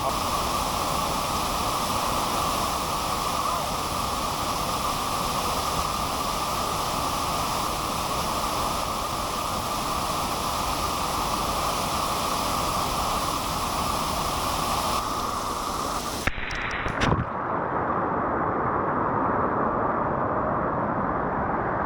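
Loud, steady rushing of a waterfall heard close up. About three-quarters of the way through it breaks briefly and then goes on duller, with the high end gone.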